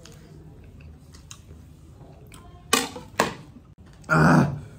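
A person eating spicy ramen close to the microphone: soft chewing, then two sharp smacks about half a second apart, and a louder half-second burst of mouth noise near the end.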